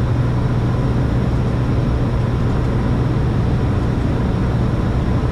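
Steady cockpit noise of an airliner on final approach: a constant low hum under an even rush of airflow and engine noise, with no change through the stretch.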